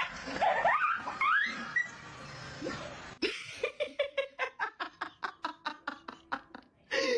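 A dog whimpering and yipping in short rising squeals. After a cut, a person laughs in quick rhythmic bursts, about five a second.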